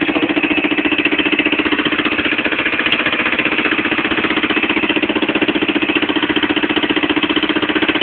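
1984 Honda Fourtrax ATV's single-cylinder four-stroke engine idling steadily just after a cold start, with a rapid, even exhaust beat. It runs through an exhaust that the owner finds is off, with a hole in the muffler.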